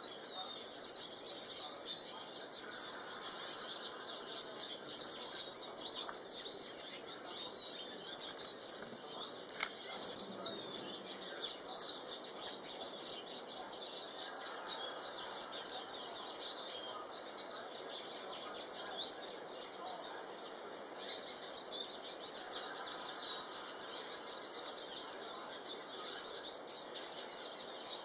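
Small songbirds chirping and twittering, a dense run of short, high calls that keeps going with hardly a break.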